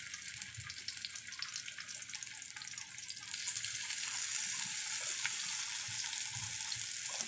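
Spice-coated whole bitter gourds sizzling in a shallow layer of hot oil in a pan as more are laid in. The sizzle steps up about three seconds in and stays louder.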